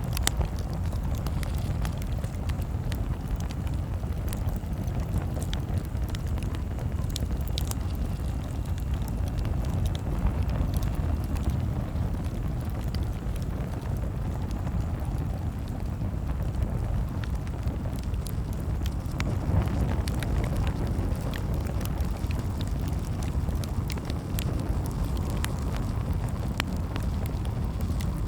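Campfire burning: a steady low rumble from the flames, with sharp crackles and pops scattered irregularly throughout.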